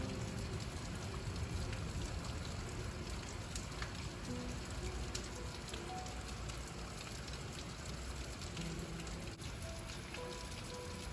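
Steady rain falling, with many single drops ticking through the even hiss. Soft short musical notes play faintly over it.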